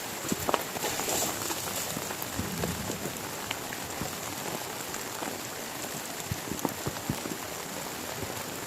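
Heavy rain falling steadily, a dense even hiss with many individual drops ticking close by and a few louder drop hits.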